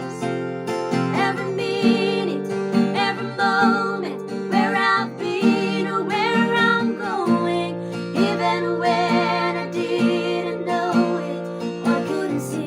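Female voice singing a praise song with vibrato over strummed acoustic guitar.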